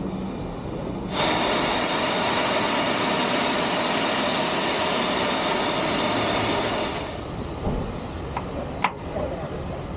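Steam locomotive venting steam: a loud steady hiss that starts suddenly about a second in and cuts off about six seconds later, followed by a few sharp clicks near the end.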